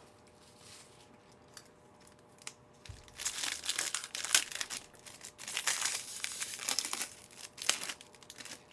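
Crinkling and tearing of a trading-card pack wrapper being ripped open and handled, starting about three seconds in and going on in quick rustling bursts for several seconds.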